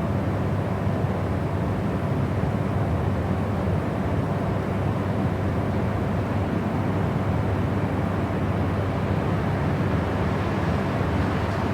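Steady, unbroken noise with no changes, heaviest in the low end: a deep, even rumble with a hiss above it that fades towards the highs.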